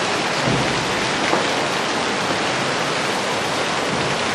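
Hailstorm: hail and heavy rain pelting down in a dense, steady hiss of impacts.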